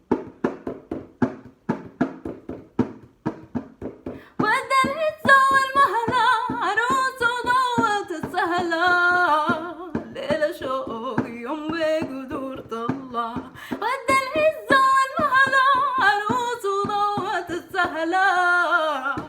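A woman sings a Sudanese song in Arabic over a rhythmic instrumental accompaniment. The first few seconds are the accompaniment alone, quick even strikes at about three to four a second, and then the voice comes back in with long melodic phrases.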